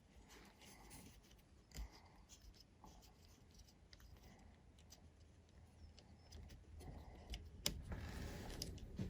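Faint handling noise of hexacopter frame parts being worked loose by hand: a few scattered small clicks, then louder rustling and a sharp click in the last couple of seconds.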